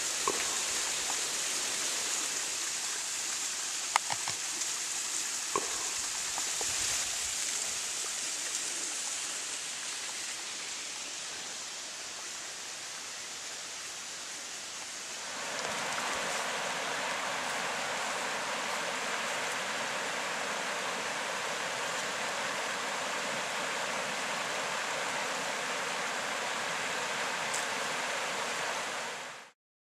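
Waterfall cascading down a rock wall at low dry-season flow: a steady rushing of water, with a few faint knocks early on. About halfway through the rush becomes louder and fuller, and it cuts off suddenly near the end.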